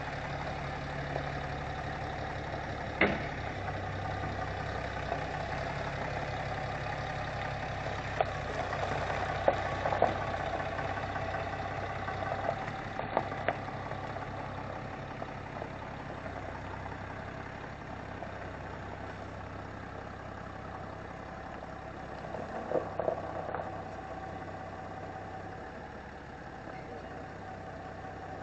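Mercury 60 hp four-stroke outboard running at low speed, a steady low hum that shifts pitch a few times, with a few sharp knocks.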